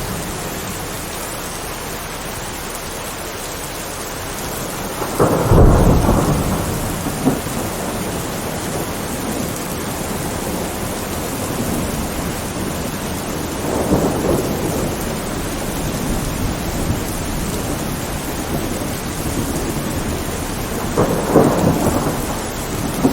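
Steady rain with rolling thunder: three rumbles swell over the rain, the loudest about five seconds in, then smaller ones in the middle and near the end.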